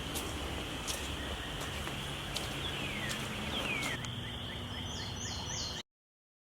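Outdoor ambience after rain: birds calling, including two falling whistled calls in the middle, over a steady high-pitched hum and background noise. The sound cuts off suddenly near the end.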